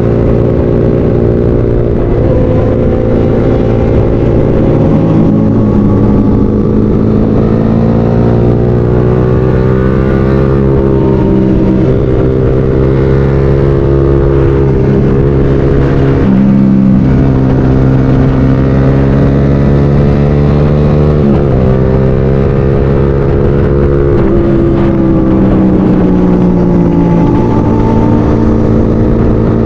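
Motorcycle engine running hard on the road, its note rising slowly and falling sharply several times as the rider shifts and changes speed.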